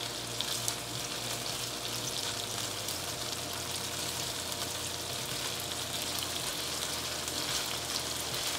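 Salmon fillet pieces sizzling steadily in hot oil in a nonstick frying pan, along with green onion, ginger and garlic. The pieces have just been flipped, so the second side is starting to fry.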